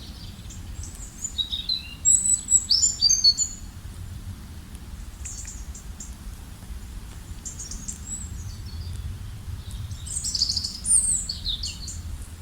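Songbirds chirping and calling in quick, high-pitched phrases: one busy bout about a second and a half in and another near the end, with scattered chirps between. A steady low rumble runs underneath.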